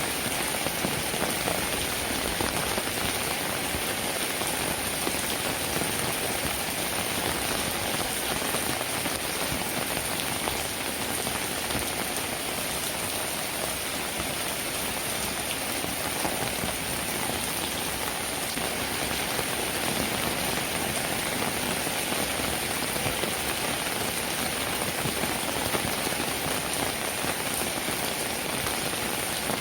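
Steady rain falling, with a dense patter of raindrops.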